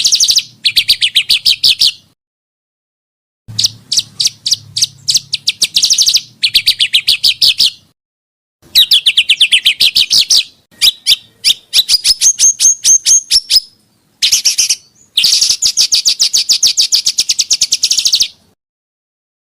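Small songbird singing rapid strings of sharp, repeated high notes, about seven a second, in phrases of a few seconds. It is an edited bird-song recording of the rapid 'tembakan' type, with phrases cut off into sudden dead silence between them.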